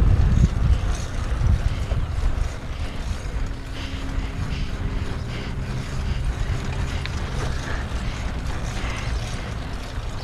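Wind buffeting the microphone of a GoPro on a bicycle coasting downhill, a low rumbling rush that eases off after about two and a half seconds.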